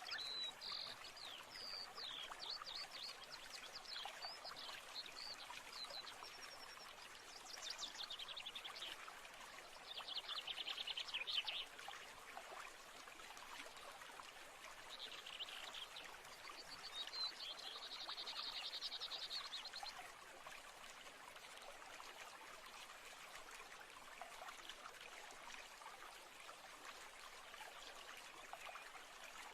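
Nature ambience: a faint steady trickle of running water, with short high chirps early on and several trilling animal calls from about 7 to 20 seconds in, the loudest around 10 to 12 seconds.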